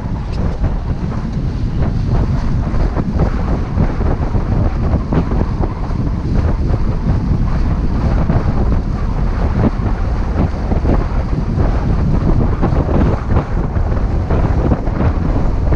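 Wind buffeting the microphone on a sailboat under way, a loud, gusty rumble with no letup.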